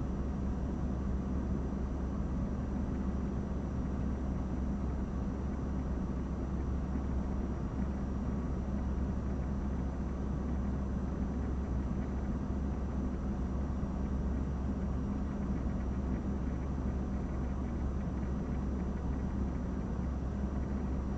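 A vehicle idling: a steady low rumble that does not change, with a faint high steady whine above it.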